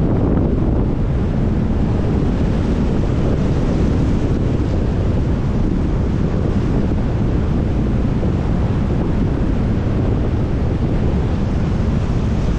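Steady low rumble of a moving vehicle's tyres and engine with a windy hiss, picked up by a dash cam.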